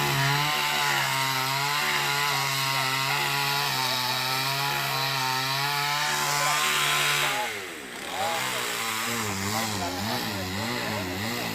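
Chainsaw running at a steady high pitch, then dropping in pitch about two-thirds of the way through and wavering up and down as its speed rises and falls.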